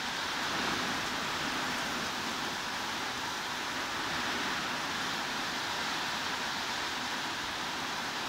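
Steady heavy rain, heard as an even hiss with no single drops or thunder standing out.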